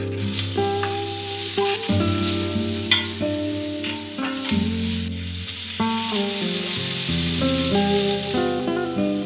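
Food frying in a pan with a steady sizzle, a few sharp clicks of stirring against it, over soft background music with held notes.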